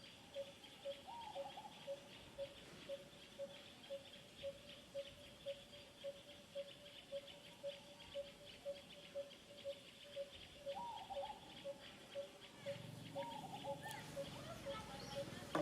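Faint outdoor wildlife sound: a short pitched note repeating evenly about twice a second over a high, steady fast ticking, with a few brief chirps.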